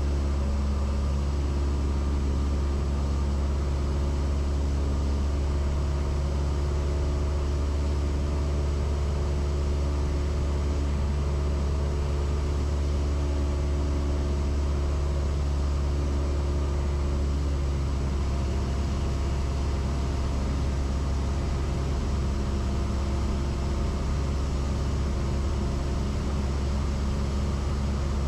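Steady in-flight drone of a Cessna 172S's four-cylinder Lycoming engine and propeller, heard inside the cabin, unchanging in pitch and level.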